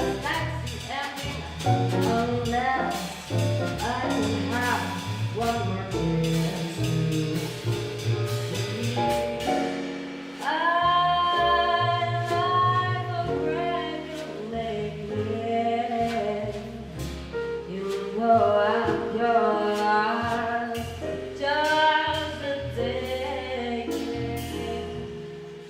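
Jazz quartet playing a song, with a singer's voice carried over the band throughout.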